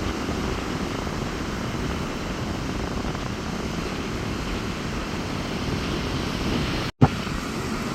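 Sea surf breaking on a beach in strong wind, a steady rushing noise with wind buffeting the microphone. The sound cuts out for an instant about seven seconds in, followed by a sharp click.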